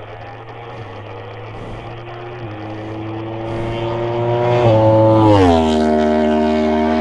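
Motorcycle with a crossplane inline-four engine and an aftermarket SC-Project CR-T exhaust, its engine note growing louder as it approaches. A little past five seconds in the pitch drops sharply as it passes, then settles on a steady lower note.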